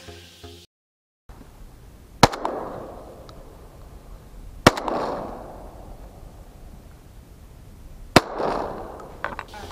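Three shotgun shots, the second about two and a half seconds after the first and the third about three and a half seconds later, each followed by a long echo rolling away. A few faint clicks follow near the end.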